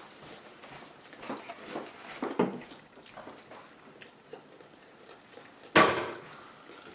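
Mealtime sounds of people eating takeout burgers: soft chewing and the handling of food and containers, with one brief, much louder sudden sound about six seconds in.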